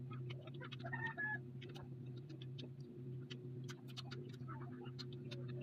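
Close-up eating sounds: chewing and wet mouth clicks and smacks as grilled street-food skewers are eaten, irregular and frequent, over a steady low electrical hum. A brief high chirp sounds about a second in.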